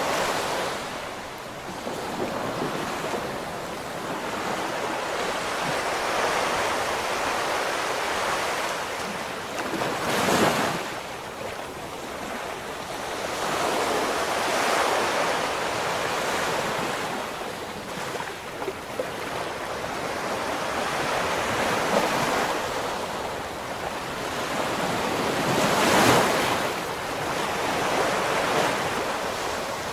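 Ocean waves surging and washing in a steady rhythm, with two louder breaking crashes, about ten seconds in and near the end. Some wind rumble on the microphone.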